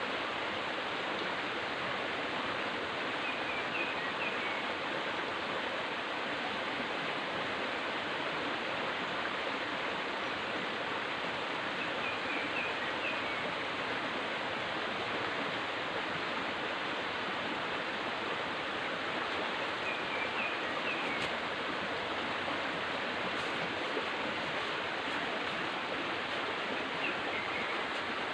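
River water rushing steadily, with short high chirps, a few in a row, sounding four times about eight seconds apart.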